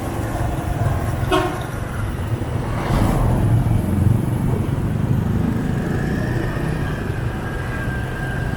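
Motorbike riding through dense scooter traffic: a steady rumble of engines and tyres, with a short horn beep about a second in and a louder vehicle passing close around three seconds in.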